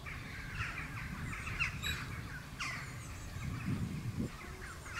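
Wild birds chirping and singing outdoors in a busy run of short, quick notes.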